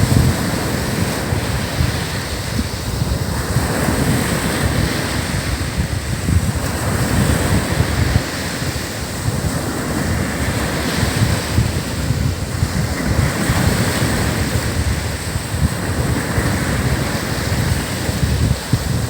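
Surf breaking and washing on a sandy beach, rising and falling in slow swells, with wind buffeting the microphone in a low rumble throughout.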